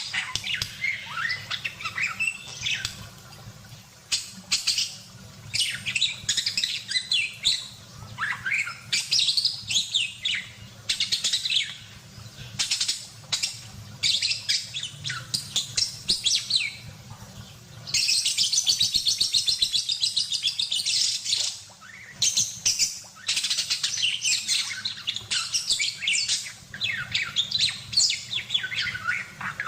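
Budgerigar chattering and warbling in a stream of rapid chirps, with a fast, buzzy trill held for about three seconds past the middle.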